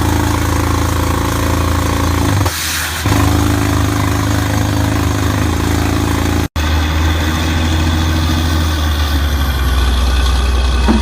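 Heavy diesel engine running steadily. The sound dips briefly about two and a half seconds in, then cuts out for an instant about six and a half seconds in, after which it runs deeper and heavier.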